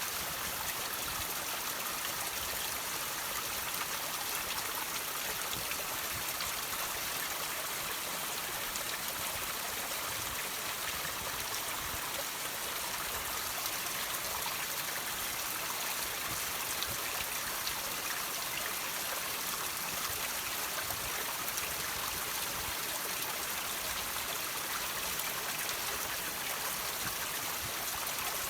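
Water trickling and dripping off rocks, a steady splashy hiss dotted with many small drips.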